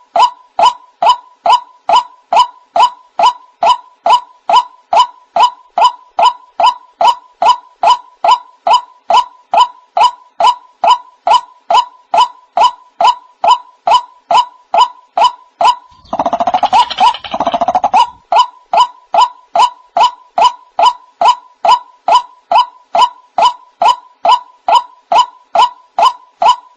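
White-breasted waterhen calling: a monotonous run of short, clipped notes repeated about twice a second. About sixteen seconds in, the run breaks for two longer, noisier cries before the regular notes resume. This is the repetitive call used as a lure for hunting waterhens.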